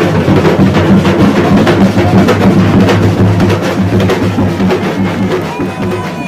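Bumba meu boi percussion group, massed drums beating a fast, dense rhythm, easing off slightly near the end.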